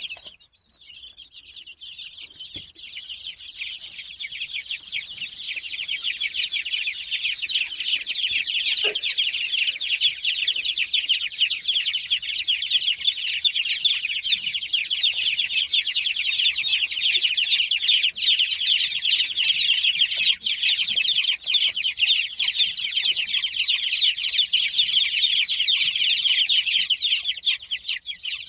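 A brooder full of young chicks peeping in the dark. The peeping starts faint, swells within a few seconds into a loud, dense chorus and holds there, then stops abruptly at the very end. It is a sign of the chicks' distress at the darkness.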